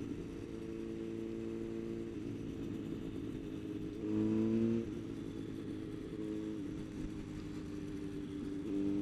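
Motorcycle engine running steadily while riding, its pitch stepping up and down a few times and briefly louder about four seconds in.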